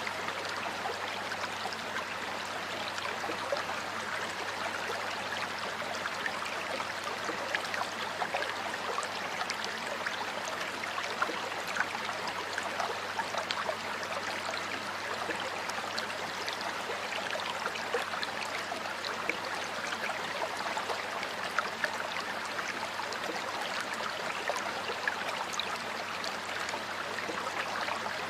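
Water flowing steadily over rocks in a stream, a continuous rushing with many small splashes and trickles in it.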